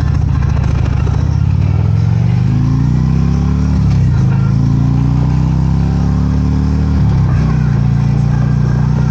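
Motorcycle engine under way, its pitch rising as it accelerates and then dropping sharply with an upshift about four seconds in and again about seven seconds in, before holding steady.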